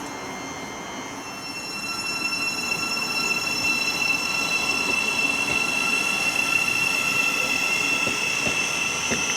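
A train approaching and running past, with a steady high-pitched squeal of several tones at once that grows louder from about a second and a half in and then holds. A few light clicks come near the end.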